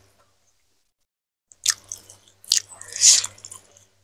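Close-miked eating sounds: wet chewing and mouth noises starting about a second and a half in, with a sharp click about two and a half seconds in.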